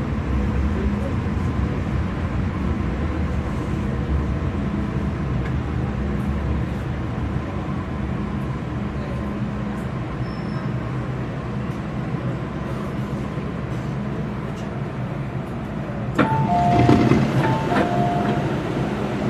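MTR Kwun Tong Line M-Train running, heard from inside the car as a steady rumble with a faint hum. About three-quarters of the way through there is a sudden louder clatter, and an electronic two-note chime sounds twice, high note then lower.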